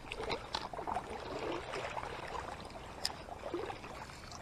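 Faint splashing and trickling of water in a shallow river, with a few small clicks.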